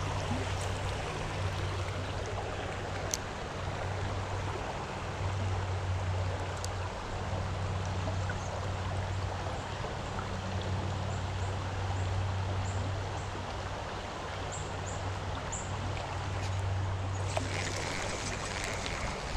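Creek water running steadily over rocks, a constant rushing hiss that grows brighter near the end, with a few faint high chirps midway.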